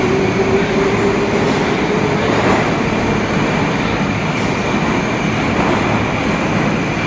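Metro train running: a steady loud rumble of wheels on the track, with a thin high whine held throughout and a lower hum that fades out about a second in.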